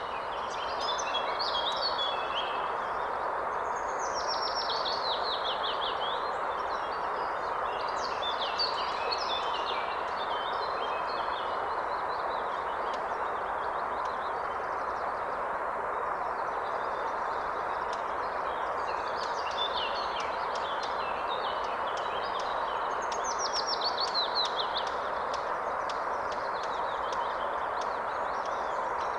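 Steady rush of a flowing forest river, with songbirds singing over it: a fast descending trill about four seconds in and again near the end, and shorter phrases between.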